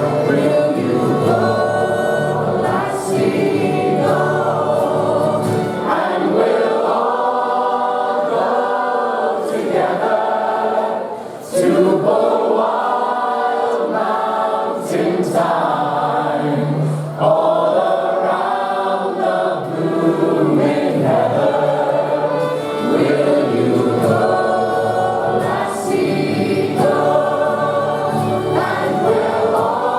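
Many voices singing together in chorus, a sung group number with held notes. It breaks briefly about eleven seconds in before the singing picks up again.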